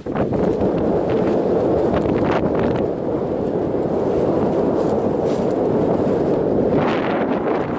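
Strong mountain wind buffeting the microphone, a dense, steady rumbling roar.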